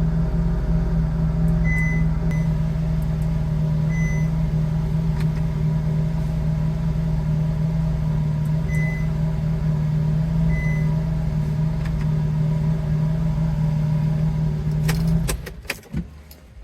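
Ferrari 458's 4.5-litre V8 idling steadily, then shutting off near the end. A few short high beeps sound over the idle, and a few clicks follow as the engine stops.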